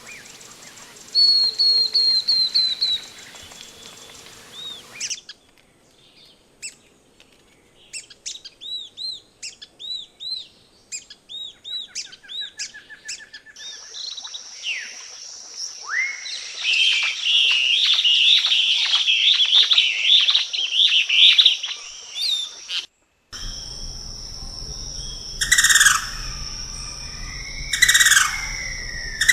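Wild birds of several species calling and singing in turn, each recording cut off abruptly and replaced by the next. There are rapid series of short chirped notes, then dense chattering, then loud calls repeated about every two seconds over a steady high whine.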